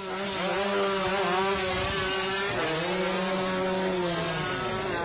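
Engine running at a fairly steady speed, its pitch dipping briefly and picking up again about two and a half seconds in.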